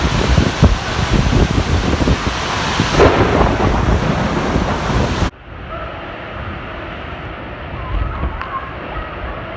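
Tropical-storm wind and heavy rain, gusts buffeting the microphone. About five seconds in it cuts abruptly to a quieter, duller stretch of rain and wind.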